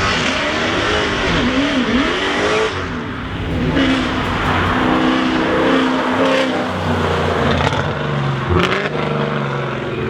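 Sports car engines running, revved so the pitch rises and falls in the first couple of seconds, then running at steadier speeds with several engine tones layered together.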